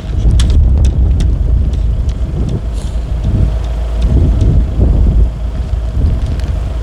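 Strong gusting wind buffeting the microphone in a snowstorm: a loud, deep continuous rumble with scattered small ticks.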